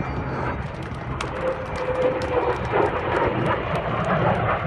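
Aircraft engine running, with scattered sharp clicks over it and a short steady tone about two seconds in.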